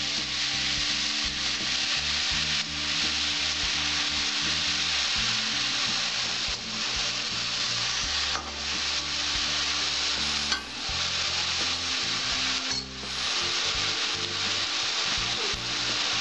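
Chopped red amaranth leaves sizzling as they fry in mustard oil in an aluminium kadai, stirred with a metal spatula. The frying hiss is steady, with a few brief dips.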